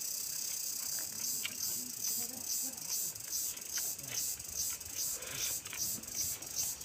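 A person chewing a mouthful of rice and curry, with rhythmic wet mouth sounds about twice a second and a few faint clicks, over a steady high hiss.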